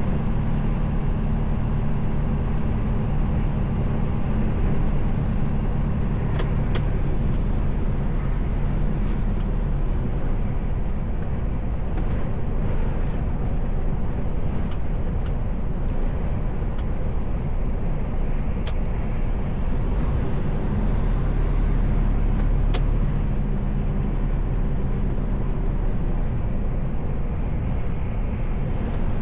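Mercedes-Benz Actros L truck driving, heard from inside the cab: steady diesel engine drone under continuous road noise, with a few faint sharp clicks.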